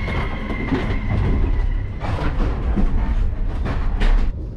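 Passenger train running, heard from inside a moving carriage: a steady low rumble with irregular clicks and knocks from the wheels and car joints. A thin steady high tone over it stops about two seconds in.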